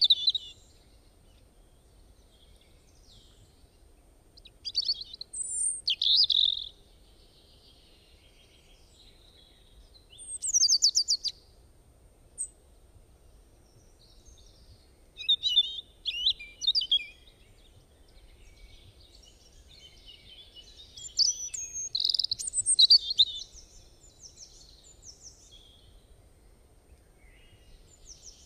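Small birds chirping and twittering in short high-pitched bursts every few seconds, with quiet gaps between.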